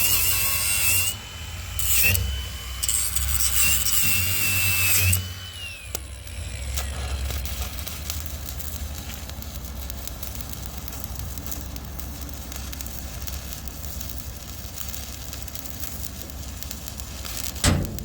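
Stick-welding arc crackling and hissing with a high whine, cutting off about five seconds in. A low steady hum follows, and a few sharp knocks come near the end.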